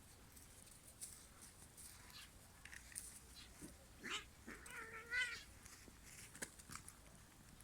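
A kitten gives a short wavering meow about five seconds in, with a few briefer squeaky calls just before it and scattered light clicks around it.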